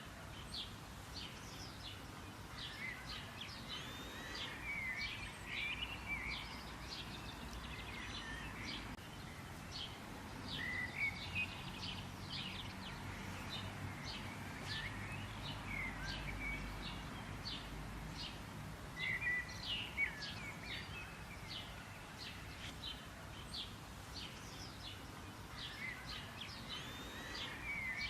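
Wild birds chirping and calling: a dense run of short, quick chirps with some warbled, gliding notes, over a steady outdoor background hiss.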